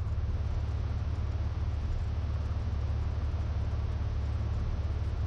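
Cessna 182's piston engine and propeller running at low power on the ground, a low, steady drone with a fine rapid pulse, heard through the cockpit intercom.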